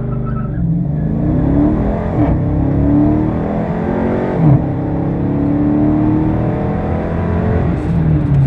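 Dodge Charger R/T's 5.7-litre Hemi V8 accelerating hard at full throttle during a 0-to-60 run. The engine note climbs steadily and drops back at each upshift, about two, four and a half and eight seconds in.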